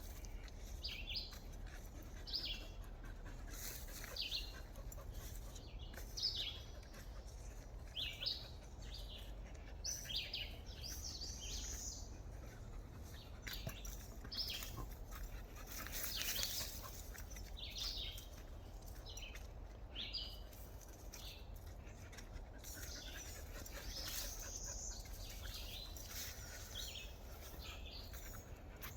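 Wild birds chirping outdoors: many short, high calls repeating every second or so, over a steady low rumble.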